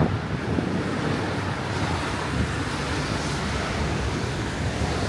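Wind buffeting the camera microphone: a steady rushing rumble.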